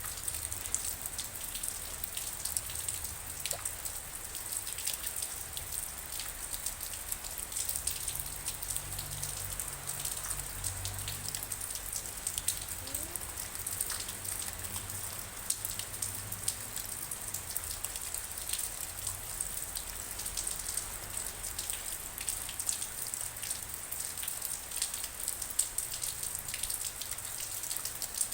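Steady rain falling, with many sharp individual drop hits through a continuous hiss.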